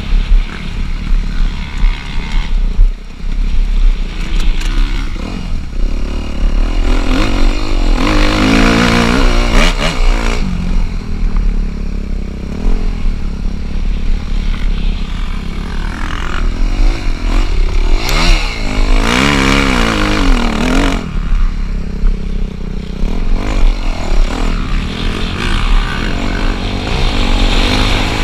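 Off-road motocross motorcycle engines running and revving up and down, with the pitch climbing and falling sharply about eight seconds in and again around eighteen to twenty-one seconds.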